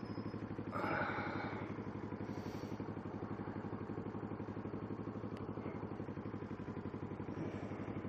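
Kawasaki Ninja 650R's parallel-twin engine idling steadily with an even, rhythmic pulse. A short rustle comes about a second in.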